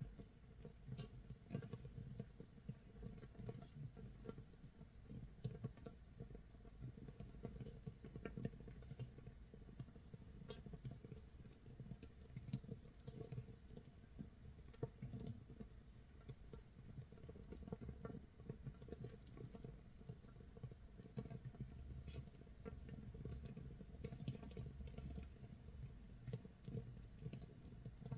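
Makgeolli starter mash fermenting in a crock, 24 hours in: a faint, steady, dense crackling of tiny popping bubbles, like rain pattering or rice crust crisping in a pan.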